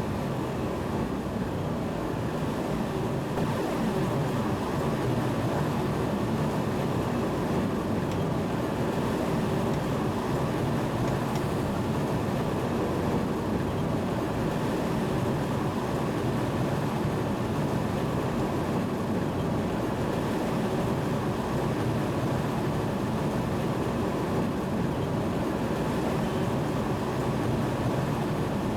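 A train running, heard from inside its driver's cab: a steady, even low rumble that holds without change.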